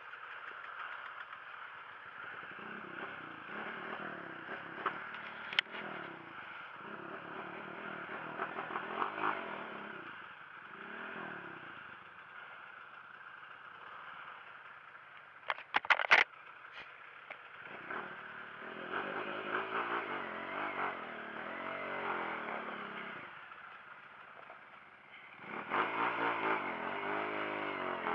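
Dirt bike engines revving up and down repeatedly, as if climbing a rough trail, with scattered clattering knocks. There is a quick run of loud sharp knocks about halfway through, and the engine revs louder near the end.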